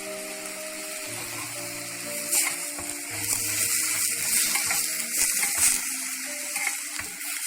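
Chicken and vegetables sizzling as they fry in butter in a pan, with stirring clatter that grows louder through the middle. Soft background music with held notes plays underneath.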